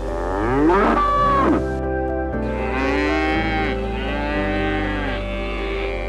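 Cows mooing: two long moos, the first in the opening two seconds and the second from about two and a half to five seconds in, over background music with sustained notes.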